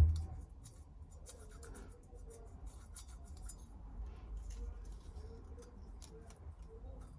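A short thump at the very start, then faint small metallic clicks and light scraping: feeler gauge blades being handled and slid into a piston ring's end gap to measure it.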